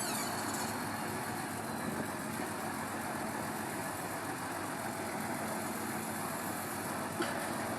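Truck engine idling steadily, with a single sharp click about seven seconds in.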